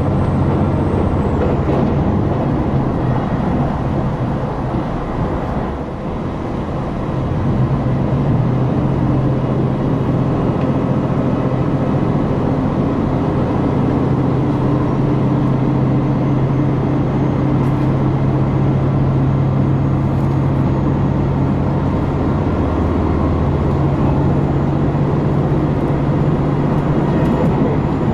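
Diesel engine of a KiHa 261 series railcar running under power, heard from inside the train, with a steady low engine drone over running noise. The level dips briefly about six seconds in, then the engine pulls steadily again.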